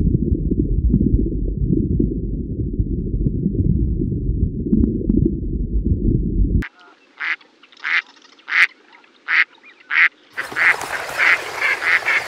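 A muffled, low underwater rumble for about the first six and a half seconds, which cuts off suddenly. Then a run of short, repeated duck calls follows, and near the end a flock of waterfowl calls together over a rushing background noise.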